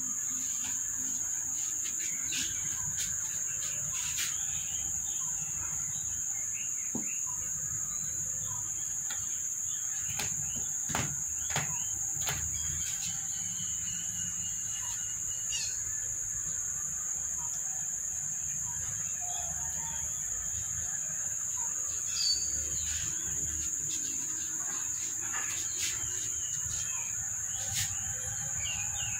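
Small birds chirping in short, scattered calls over a steady high-pitched drone, with a few sharp clicks.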